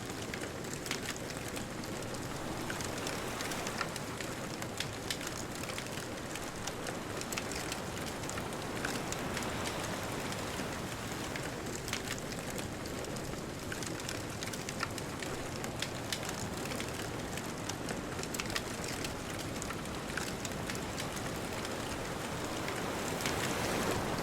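Wood bonfire crackling, with frequent small sharp pops scattered over a steady hiss of distant ocean surf that swells slightly near the end.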